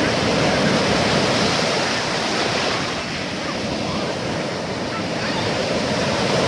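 Black Sea surf washing onto the shore, a steady rushing noise that swells and eases slowly.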